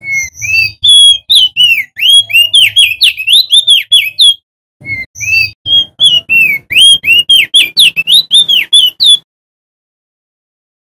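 Male opior jambul (crested darkeye) singing loudly in two fast bursts of rapid, rising and falling whistled chirps, with a short break between them. It stops about two seconds before the end. This is a full song of the kind used as a lure call to get other opior birds singing.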